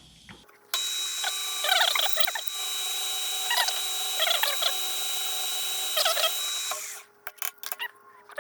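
Electric drill running steadily with a high whine while drilling into steel flat stock, with a few brief squeals as the bit cuts. It starts abruptly under a second in and stops about a second before the end.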